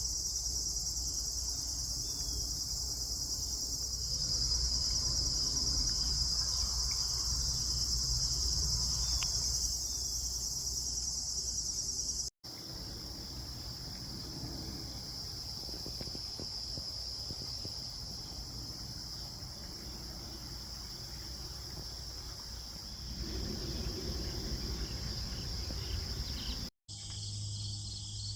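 A steady, high-pitched chorus of insects. It breaks off briefly twice, near the middle and near the end, where the recording is cut.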